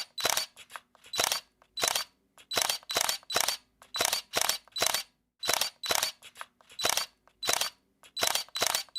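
Camera shutter clicking over and over, sharp mechanical clicks in quick pairs and triplets with short gaps between, about two to three a second.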